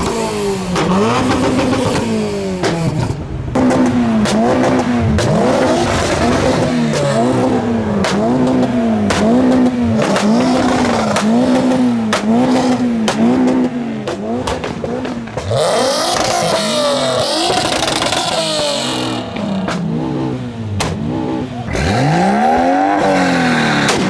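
Renault Clio's engine being revved on the spot in repeated quick blips, each rising and falling, about one a second. Past the middle come longer, harsher revs.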